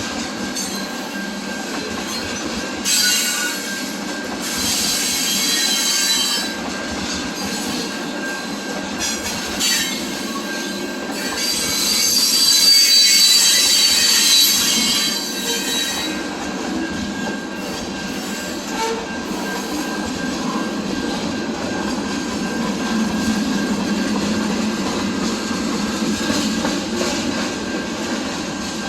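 A train rolling past with its wheels squealing on the rails. The squeal is high-pitched and comes in two louder stretches, a short one a few seconds in and a stronger one around the middle, over a steady rolling rumble.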